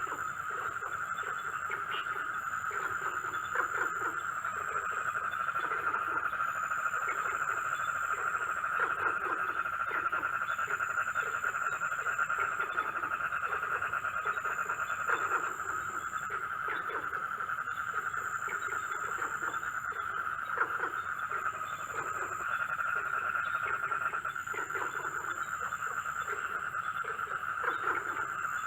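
Night chorus of frogs and insects: a steady trilling chorus, frogs croaking in short repeated calls about once or twice a second, and a high insect buzz that comes and goes every couple of seconds.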